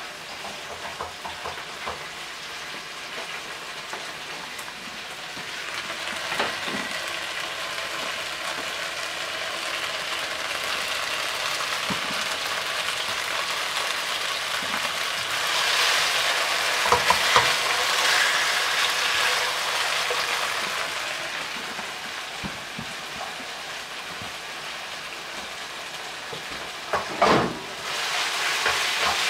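Chicken strips sizzling as they fry in a frying pan over a gas burner, stirred now and then. The sizzle swells in the middle, and a few knocks of the stirring utensil against the pan stand out, the loudest near the end.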